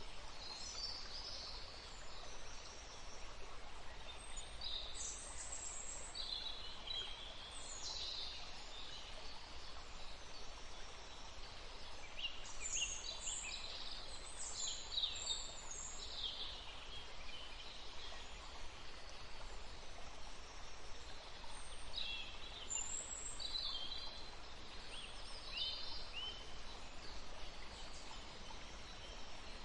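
Woodland stream running with a steady hiss, while songbirds chirp and trill over it throughout, busiest about halfway through.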